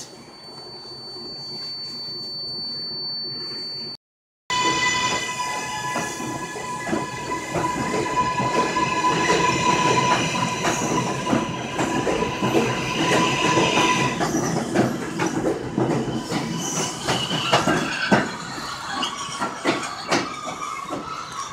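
Trains at a station platform. First a train's noise builds for about four seconds. After a cut comes a loud train passing close, with several steady high-pitched tones and rapid clicks of wheels over the rail joints.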